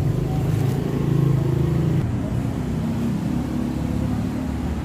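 A motor vehicle's engine running with a steady low hum; its pitch shifts about two seconds in.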